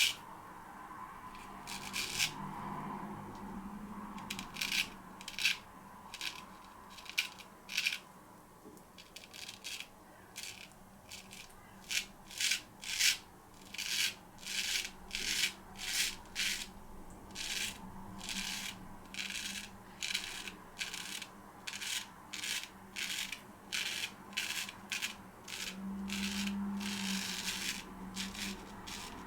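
Sheffield straight razor (Joseph Rodgers & Sons No1 Star & Cross) scraping through lathered beard stubble in a run of short strokes, about one or two a second, with a longer stroke near the end.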